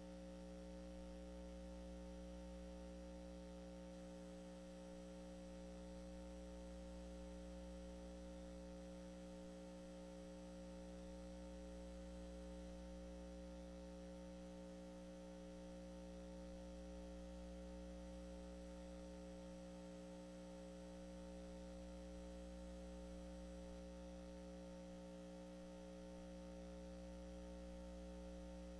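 Faint, steady electrical hum with several fixed overtones, its low part swelling and fading about every five seconds. No singing or organ melody is heard.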